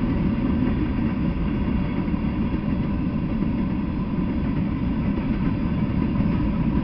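Freight train of covered hopper cars rolling past, a steady deep rumble of wheels on the rails.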